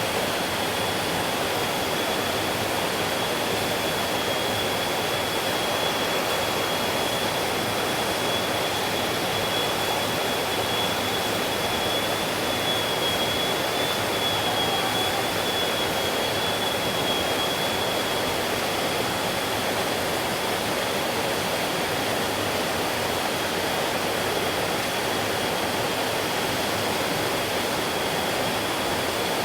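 Mountain stream flowing steadily, an even rush of water with a thin, steady high-pitched tone running alongside it.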